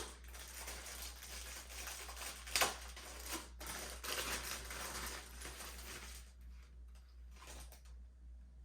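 Plastic packaging crinkling as parts of a cordless vacuum are unwrapped and handled on a table, with a sharp knock at the start and another about two and a half seconds in. It grows quieter after about six seconds.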